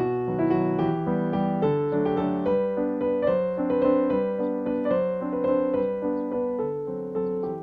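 Background piano music: a gentle melody of notes struck one after another over held chords.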